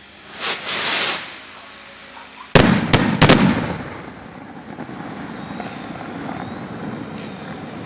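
Fireworks: a hissing swell, then three sharp bangs in quick succession, about a third of a second apart, each trailing off in a low rumble.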